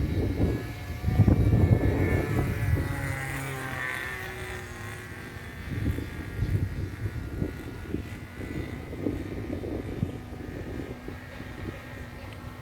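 OS .46 two-stroke glow engine of an RC model airplane running at high throttle in flight, its note bending up and down in pitch as the plane passes, then slowly fading. A loud low rumble sits under it in the first couple of seconds.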